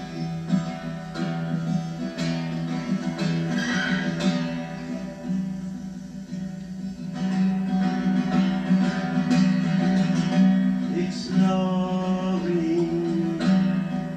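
Live acoustic song music: an acoustic guitar playing an instrumental passage between sung lines.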